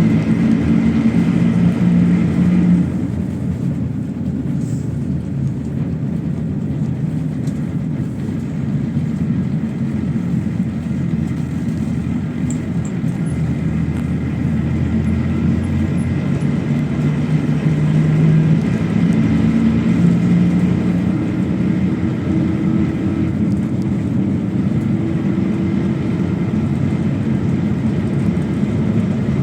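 PAZ-32054 bus engine running under way with road noise; the engine note drops away about three seconds in and climbs again from about eighteen seconds in as the bus accelerates.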